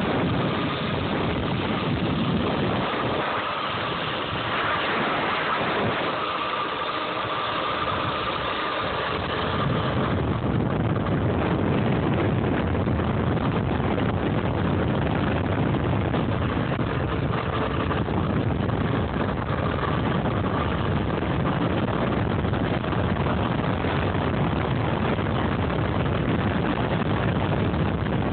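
Homemade DC electric dirt bike being ridden: a steady high motor whine under wind buffeting the microphone. About ten seconds in, the wind rumble gets louder and stays, covering the whine.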